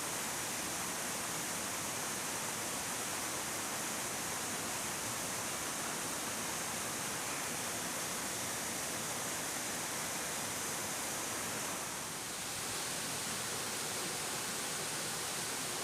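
Steady rush of a heavy-flowing waterfall about 30 metres high, falling water with no other sound above it. The sound dips slightly and changes a little in tone about twelve seconds in.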